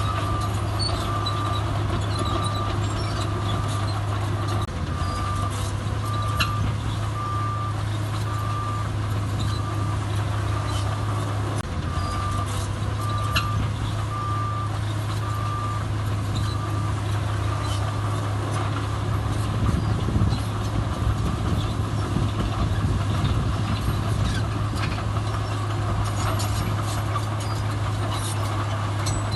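A heavy diesel earthmoving machine runs steadily while a reversing alarm beeps at one pitch, about one beep a second. The beeping stops a little past halfway, and the engine then works harder and rougher for a few seconds.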